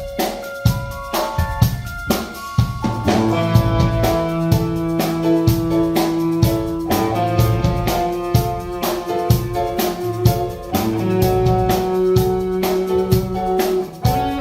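Live band playing an instrumental passage: a drum kit keeps a steady beat, and about three seconds in a bass line and sustained chords come in and fill out the sound.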